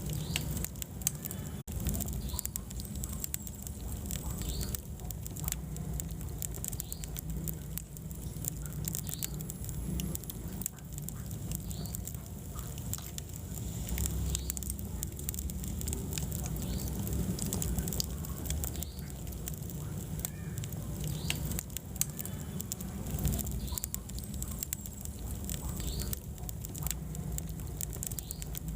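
Wood fire in a fireplace, crackling and popping with irregular sharp snaps over a steady low rumble of the flames. There is a momentary dropout about a second and a half in.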